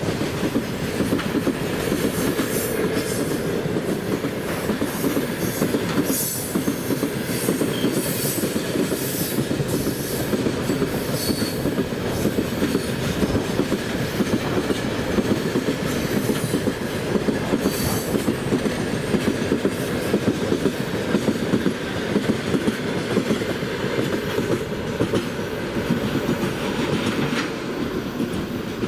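Freight train of open gondola wagons rolling past at speed, its wheels clattering steadily over the rails, with brief high squeals now and then.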